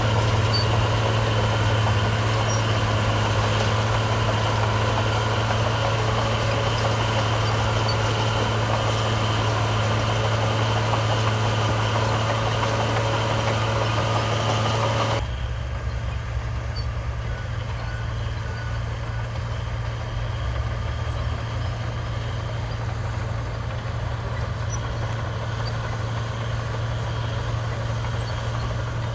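Diesel engines of heavy earthmoving machinery running steadily with a deep hum. About halfway through the sound cuts abruptly to a quieter, duller engine.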